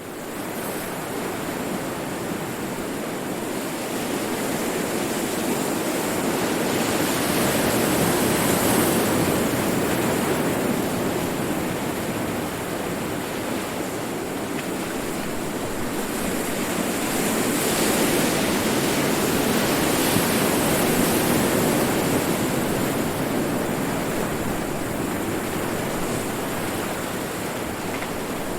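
Ocean surf: waves breaking in a continuous wash that swells and eases, building to a peak about eight seconds in and again around eighteen to twenty-two seconds.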